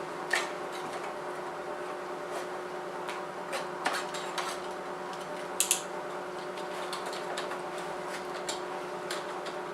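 Heat gun running with a steady hum, while a utility knife blade works through the sealant of a plastic headlight housing, giving scattered clicks and scrapes. The sharpest clicks come about a third of a second in, near four seconds and near six seconds.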